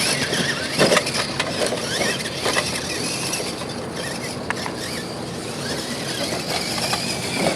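Radio-controlled monster trucks racing down the track: motors and gearboxes whining, with scattered knocks and clatter from the trucks.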